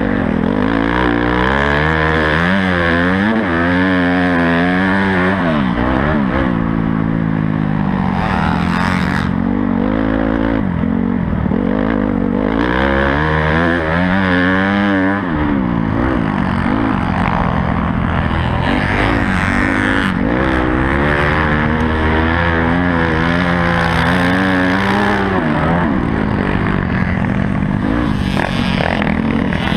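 Honda CRF250 motocross bike's four-stroke engine, heard onboard, revving hard and easing off again and again. Its pitch climbs steeply, drops back, and climbs again as the throttle is opened and shut around the track.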